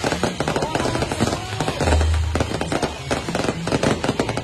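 Fireworks and firecrackers going off in a dense, rapid string of crackling pops, with a low rumble about two seconds in.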